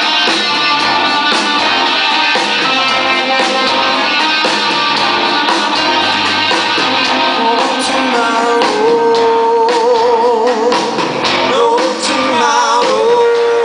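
Live rock band playing a song at full volume. From a little past the middle, a held lead note wavers up and down.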